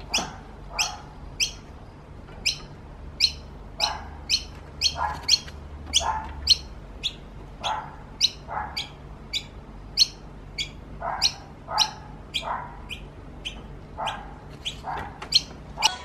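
A bird chirping over and over, short loud chirps that each fall in pitch, about one or two a second, over a faint steady low hum.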